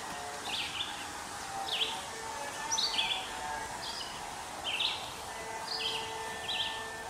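A songbird chirping over and over: short, high, quickly falling chirps in twos and threes, about one cluster a second, over a steady outdoor hiss.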